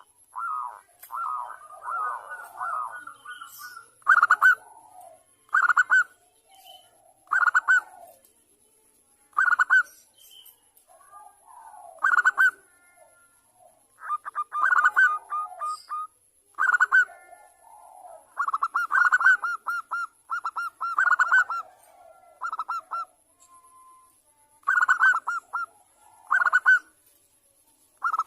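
Zebra dove (perkutut) cooing in short bursts of rapid staccato notes, one burst every second or two, with longer rattling runs of notes at the start and in the middle. It is presented as a female's call to draw a male into answering.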